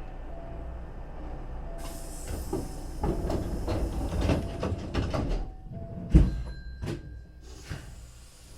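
Hankyu 3300 series commuter train's doors closing: an air hiss from about two seconds in, rattling and knocking, and a loud thud of the doors shutting about six seconds in, followed by a brief tone.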